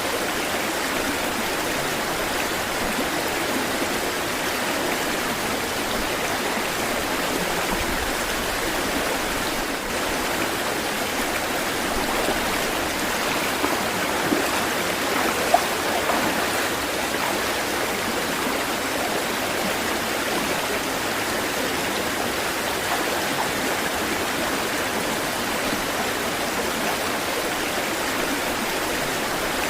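Running water, a stream flowing steadily with an even rushing and babbling sound, with a few sharper splashes near the middle.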